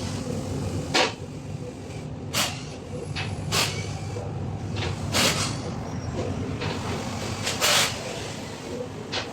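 Repair work on a car: a series of short, sharp clicks and knocks, about seven of them spaced irregularly, over a steady low hum.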